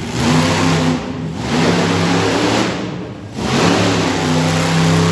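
Monster truck engine revving hard in three long surges, dropping back briefly about a second in and again past the midpoint.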